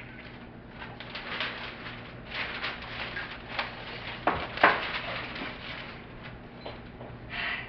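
Rain falling: a steady hiss with an irregular patter of drops, a few louder splats about four and a half seconds in.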